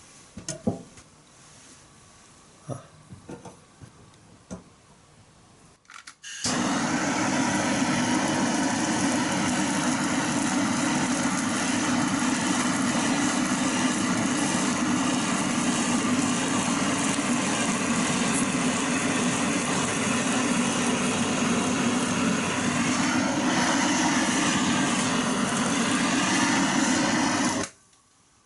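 A handheld gas blowtorch searing fish skin. It lights suddenly after a few small clicks and knocks, burns with a loud, steady hiss for about twenty seconds, then cuts off abruptly.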